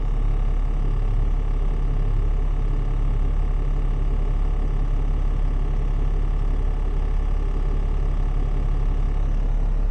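Heavy tow truck on the move, a steady low rumble of engine and road noise heard inside the cab.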